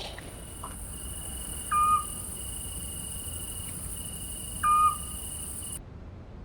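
Night ambience of insects trilling steadily, with an owl hooting twice, two short calls about three seconds apart that are the loudest sounds. The insect sound cuts off suddenly near the end.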